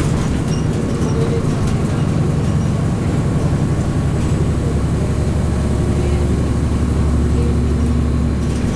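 Cummins ISC straight-six diesel engine of a 2002 Blue Bird CS transit bus running steadily under way. Its low drone grows stronger about six seconds in.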